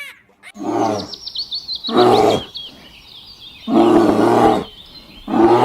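A farm animal calls four times in loud, wavering calls of about half a second to a second each, while a small bird chirps rapidly in the background during the first half.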